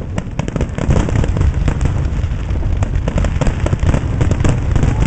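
Fireworks display: aerial shells bursting in a rapid, overlapping barrage of booms and crackles, many shots a second without a break.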